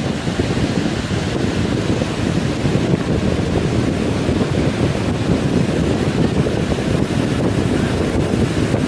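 Wind buffeting the microphone over the steady noise of heavy surf breaking on the beach.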